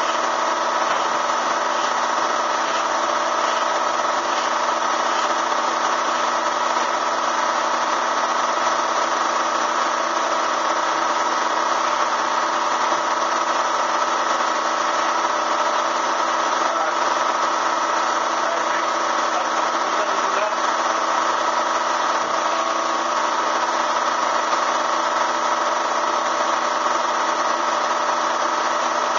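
Bee vacuum's motor running at a steady pitch, a constant loud drone that does not change.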